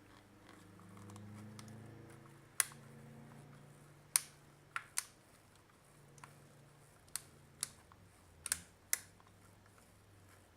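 Irregular sharp clicks and taps, about eight in all, from small hard parts and tools being handled while the corroded battery contacts of an opened Micronta 22-186 multimeter are worked on, over a faint low hum.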